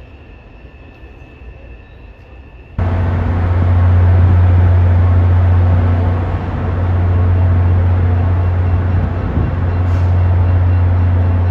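Quiet hum of an underground station platform with a faint steady whine. About three seconds in it cuts to the loud, steady low rumble of an MBTA commuter rail train approaching slowly, cab car leading.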